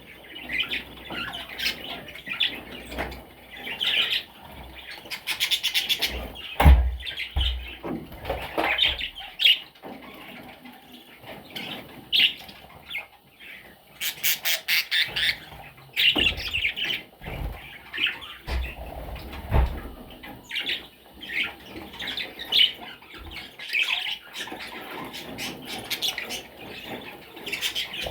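Budgerigar chattering: a continuous run of short chirps and squawks, with two fast rattling runs of clicks about five and fourteen seconds in, and a few low thumps.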